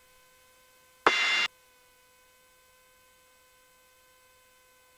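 Faint steady electrical hum with a short burst of static about a second in, lasting half a second and starting with a click, typical of an aircraft radio or intercom audio feed. No engine noise is heard.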